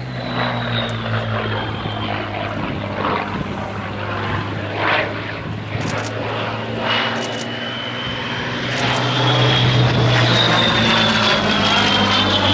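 Supermarine Spitfire Mk.I's Rolls-Royce Merlin V12 engine running steadily as the aircraft makes display passes, growing louder about eight seconds in. A high whistle slides down in pitch as the aircraft goes by. On the early Spitfire this whistle is put down to either the small round oil cooler or the gun camera port.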